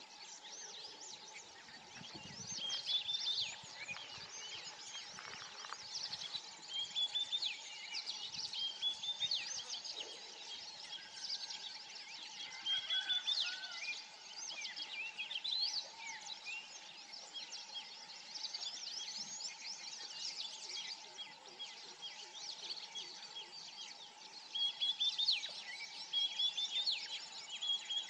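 Many birds chirping and calling at once, with short high chirps and repeated trilled phrases overlapping throughout, over a faint steady hum.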